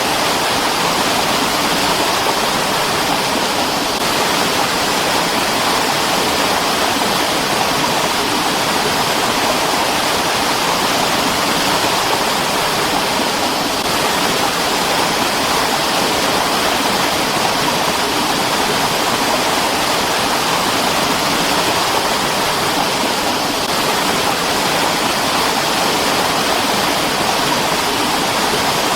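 Mountain stream water rushing and splashing over rocks, a steady, loud, unbroken flow.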